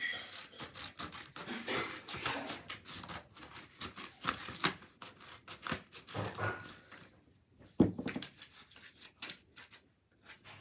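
Scissors cutting through paper: a run of irregular crisp snips and paper rustling, with one sharper knock about eight seconds in.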